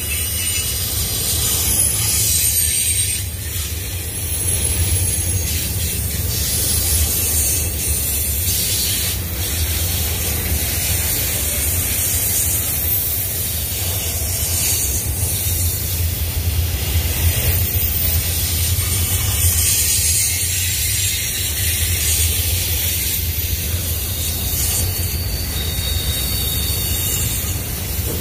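Union Pacific double-stack container cars rolling past at close range: their steel wheels on the rails make a steady low rumble with a high hiss over it and a few faint clicks.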